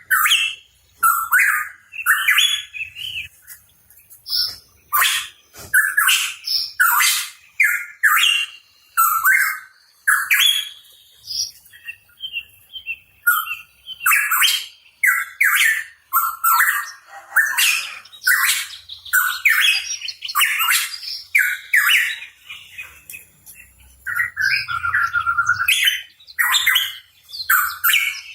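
Hooded pitohui singing hard: a fast, near-continuous string of short chirping and harsh squawking notes, with only brief pauses between phrases.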